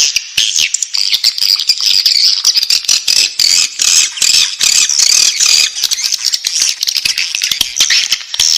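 Swiftlet chicks calling in the nest: a dense, continuous, high-pitched twittering chorus laced with many rapid sharp clicks.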